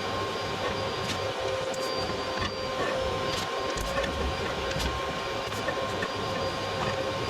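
A motor running steadily with a constant whine, with scattered ticks and scrapes over it.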